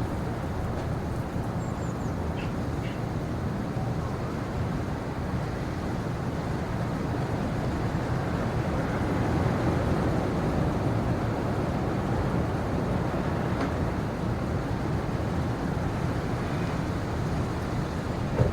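Steady low rumbling noise with no distinct events, with a couple of faint short high sounds about two to three seconds in.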